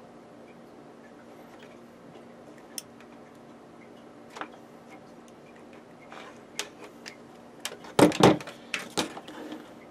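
Small objects handled on a workbench: scattered light clicks and taps, then a quick cluster of louder clatters about eight seconds in, over a faint steady hum.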